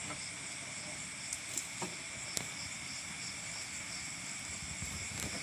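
A steady night chorus of crickets and other insects, with a few light clicks about one and a half to two and a half seconds in.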